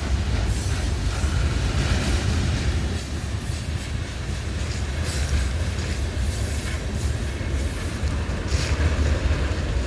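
Freight train cars rolling past at low speed: a steady, heavy rumble of steel wheels on the rails.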